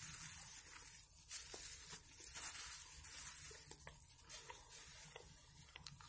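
Close-up mouth sounds of chewing a fried meat pie (belyash), mixed with crinkling of the plastic bag it is held in, with small clicks and one sharper click about four seconds in.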